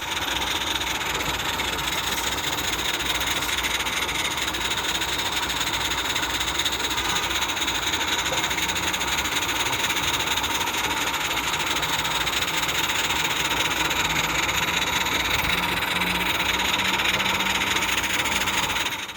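Live-steam model locomotive running, its exhaust a fast, steady hiss of steam. It fades in at the start and out at the end.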